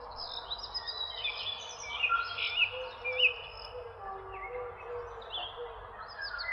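Several songbirds chirping and singing at once, their quick high chirps and warbles overlapping, over a steady faint background hiss. The loudest chirps come about two and three seconds in.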